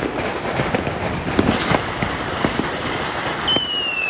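Many fireworks and firecrackers going off at once, a dense scatter of pops and bangs. About three and a half seconds in, a high firework whistle starts and slowly falls in pitch.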